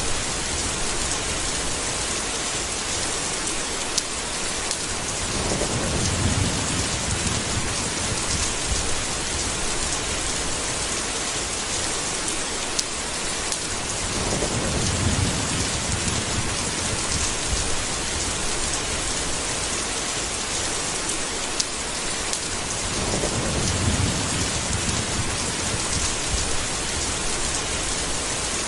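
Steady heavy rain in a thunderstorm, with a low roll of thunder swelling and fading three times, about nine seconds apart.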